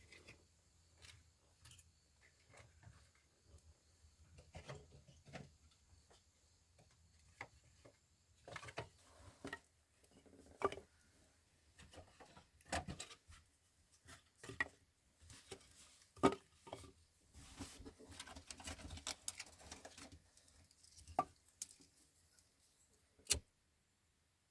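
Scattered small clicks, taps and rustles, irregular and close by, with a sharper knock near the end, after which the sound cuts off suddenly.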